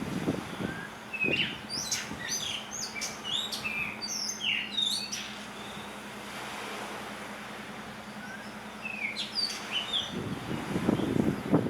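Blue rock thrush singing: a phrase of quick, varied, high whistled notes starting about a second in and lasting some four seconds, then a shorter phrase near the end. Low rumbling noise at the start and near the end.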